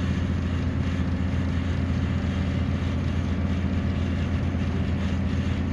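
Large engine idling with a steady, deep, even hum, likely the crab boat's engine.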